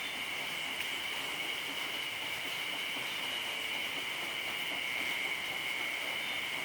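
Steady high-pitched drone of an insect chorus over a light, even hiss.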